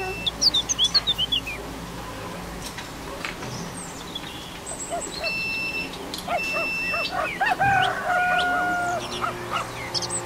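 Birds chirping and tweeting in quick runs, with two short steady beeps from a digital multimeter's continuity beeper a little past the middle.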